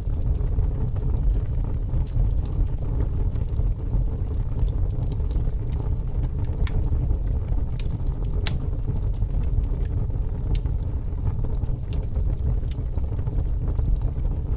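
Fire burning with a steady low rumble and scattered sharp crackles and pops at irregular intervals; one pop about eight and a half seconds in is louder than the rest.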